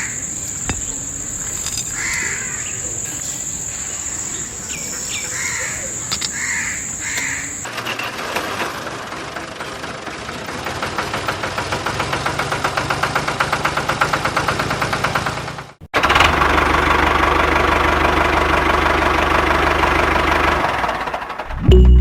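Crows cawing over a steady high-pitched buzz. Then a small engine runs with a rapid, even beat that grows louder, cut to a louder steady machine noise.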